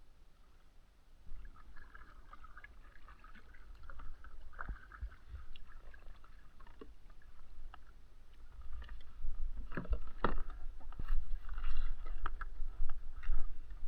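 Kayak paddling: paddle strokes splashing in the water, with a few sharp knocks, getting louder in the second half.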